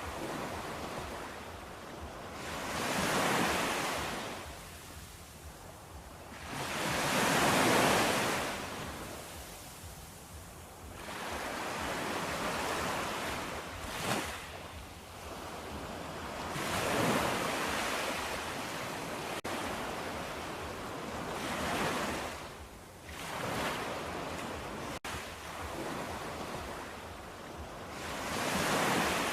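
Surf breaking on a shore: a wash of water noise that swells and fades in waves about every four to five seconds.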